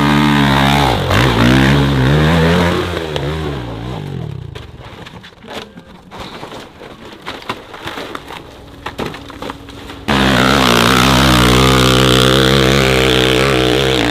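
Dirt bike engine revving hard on a steep hill climb, its pitch rising and falling for the first few seconds, then fading to a quieter stretch with scattered clicks and knocks. About ten seconds in, loud high-revving engine sound cuts in suddenly and holds a steady pitch.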